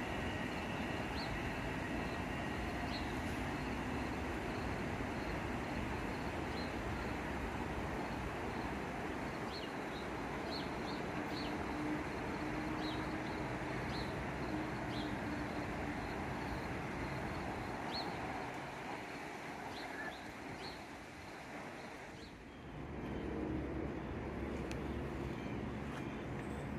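Steady rumble of a Metro-North electric multiple-unit train running at the station, dying away about twenty seconds in; a second train's lower hum starts up near the end. Short high chirps sound now and then over the rumble.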